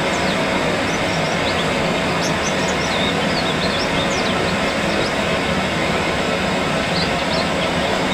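Many short, thin, high chirps of white-eyes (pleci), mostly quick rising notes scattered throughout, over a steady rushing background noise.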